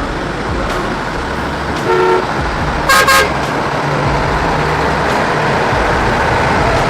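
Truck engine running steadily, with a short horn toot about two seconds in and two quick, louder, higher-pitched horn blasts about a second later.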